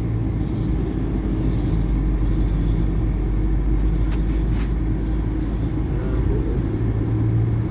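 Vehicle engine and road noise heard from inside the cabin while driving steadily in traffic: a low, even drone.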